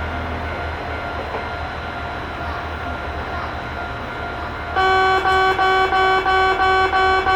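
Train running with a steady rumble and faint whine. About five seconds in, a Japanese railway level-crossing warning bell starts up abruptly, an electronic tone repeating about three times a second, louder than the train.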